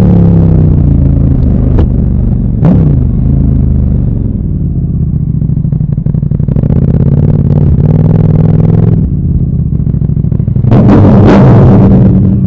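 KTM 1290 Super Duke R's V-twin through an Akrapovic Evo 2 titanium exhaust. The revs drop back at the start, there is a short sharp blip about three seconds in, then it idles steadily before being revved up again near the end.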